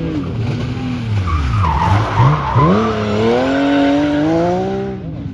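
A race car passing close by: the engine revs drop as it slows, the tyres skid with a hissing slide about halfway through, then the engine revs climb again as it accelerates away. The sound falls off just before the end.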